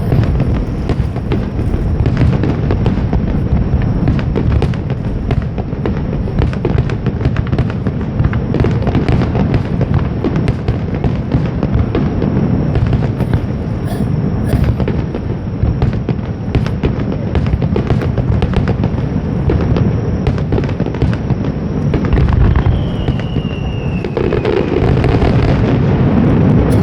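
Aerial fireworks going off in a dense, continuous barrage of booms and crackling, with a short falling whistle about two-thirds of the way through.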